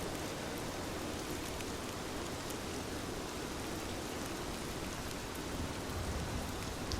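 Heavy rain falling steadily, a dense hiss with scattered sharp drop ticks. A low rumble swells slightly near the end.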